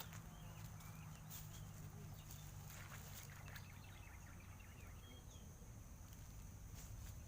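Quiet outdoor ambience with faint, scattered bird chirps and a few soft clicks.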